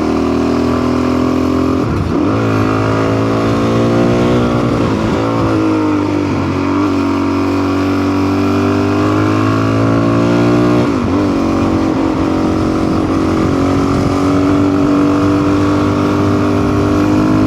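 Adventure motorcycle engine pulling under load, its revs climbing, dropping sharply at gear changes about two, six and eleven seconds in, then climbing again.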